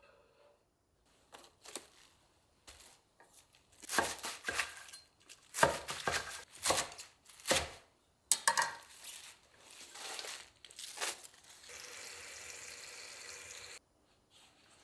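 Plastic packaging being crinkled and torn open during kitchen prep, in a run of irregular rustles and rips. Near the end comes about two seconds of steady hiss that cuts off suddenly.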